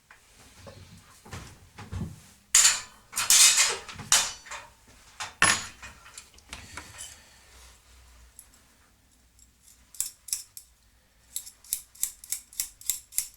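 Small steel parts clinking against each other as nuts and a threaded rod are handled: a few separate clanks, then a quick run of light clicks near the end.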